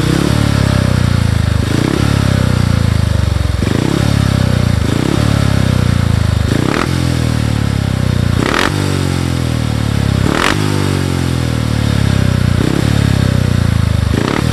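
Speedway motorcycle engine running loud, its throttle blipped over and over so the revs surge and fall back every second or two.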